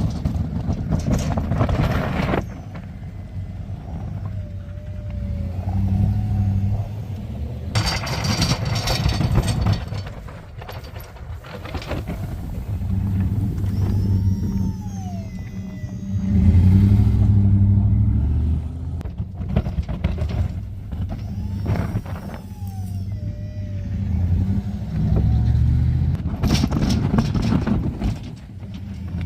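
Snow-plow truck engine running and revving up and down repeatedly, with several short bursts of loud scraping noise.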